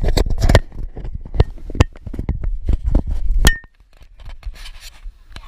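Handling noise from a GoPro held right against its microphone: irregular knocks and rumbling, then a sharp clink about three and a half seconds in that rings briefly, after which it goes quieter.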